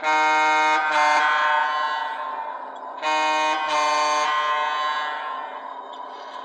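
Model GG1 electric locomotive's sound-system horn blown in two pairs of blasts, each a short note followed by a longer one that fades away, over a steady hum.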